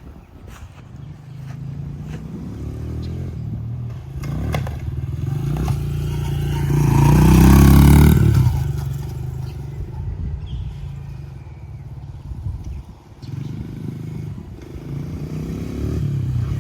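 Dirt bike engine revving up and down through gear changes. It grows loud as the bike passes close about halfway through, then fades as it rides away.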